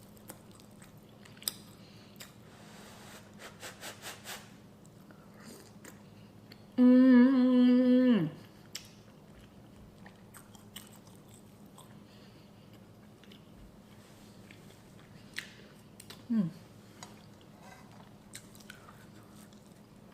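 Close-up chewing and soft mouth clicks of a person eating egg and toast. About seven seconds in comes a loud, held "mmm" of enjoyment lasting about a second and a half and dropping in pitch at the end, and a short "mm" near the end.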